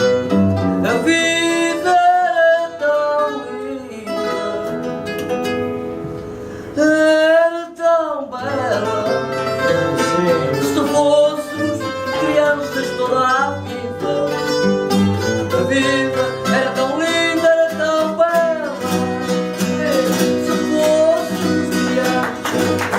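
Fado accompaniment: a Portuguese guitar plucking the melody over a viola (classical guitar) strumming chords, playing out the end of the song.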